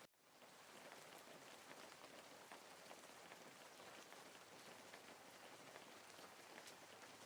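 Faint, steady rainfall with scattered individual drops pattering. It cuts out for a split second right at the start and fades back in.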